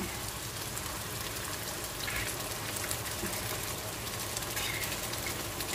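Tomato and tuna sauce sizzling in olive oil in a pan, a steady hiss.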